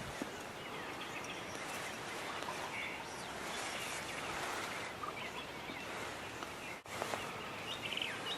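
Outdoor morning ambience: a steady hiss of background noise with faint, scattered songbird chirps. The sound cuts out for an instant about two-thirds of the way through.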